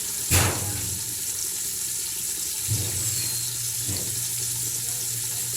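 Steady watery hiss of kitchen work with a low hum beneath. A sharp metallic clatter comes about a third of a second in, and two lighter knocks follow near three and four seconds.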